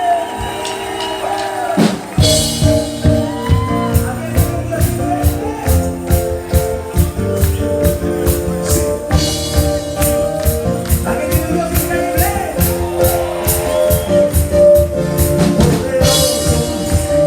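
Live band playing an upbeat worship song with a steady beat, held notes and a bass line, coming in about two seconds in after a moment of voices.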